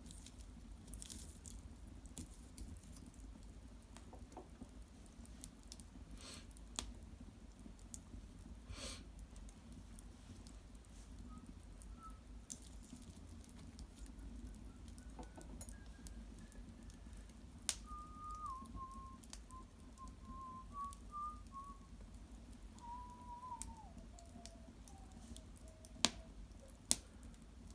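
Wood fire in an irori hearth crackling quietly with scattered sharp pops, over a low steady hum. From about the middle on, a faint thin whistle steps slowly down in pitch, the kind of whistle that steam or gas escaping from burning wood makes.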